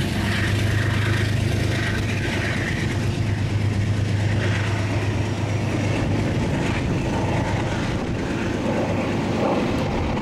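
Train running close by: a steady low engine hum over a broad rumbling rush, the hum fading after about five seconds.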